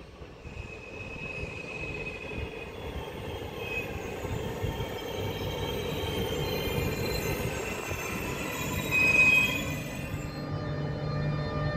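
Alstom ED250 Pendolino high-speed electric train approaching along the platform, its rumble growing steadily louder, with high-pitched squealing tones. A steady hum sets in near the end as the front of the train draws level.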